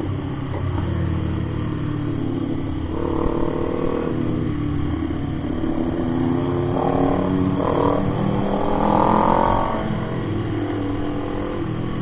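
Motorcycle engine running under way, its pitch rising as it is revved up about three seconds in and again near the end, over a steady rumble.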